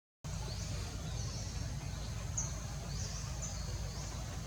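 Birds chirping: short, high-pitched calls repeating about every half second to a second over a thin steady high hum and a steady low rumble. The sound drops out for a split second at the very start.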